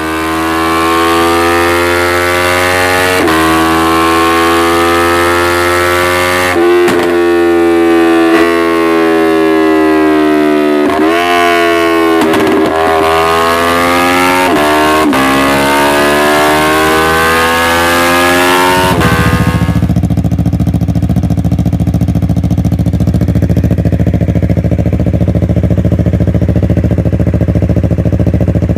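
Yamaha R3 motorcycle's parallel-twin engine through an aftermarket exhaust, rising steadily in pitch and dropping back several times as it revs or pulls through the gears. About two-thirds of the way through it settles into a steady, low, rough idle.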